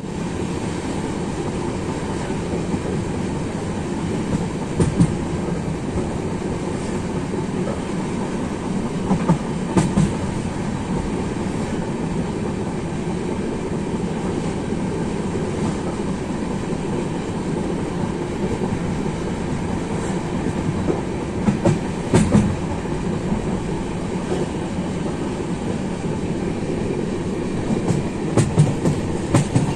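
Train running along the track: a steady rumble with occasional sharp clicks and knocks from the wheels over the rails.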